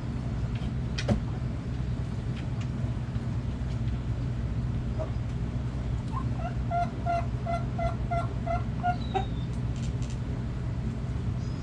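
A hen clucking a quick run of about eight short, even clucks, a little over halfway through, over a steady low background rumble. A few faint clicks can be heard.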